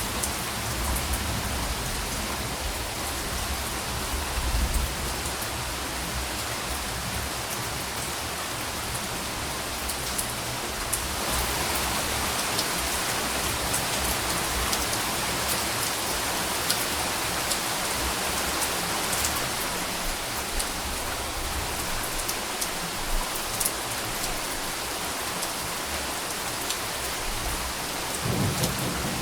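Steady rain falling and pattering, with a low rumble of distant thunder in the first few seconds. Another roll of thunder begins to build near the end.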